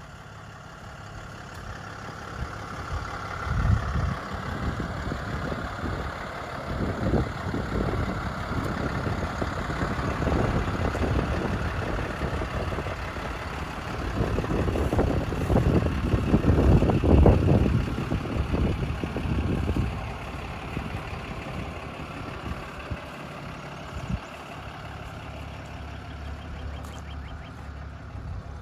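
Truck engine running, louder through the middle stretch, then settling to a steadier, quieter idle after about twenty seconds.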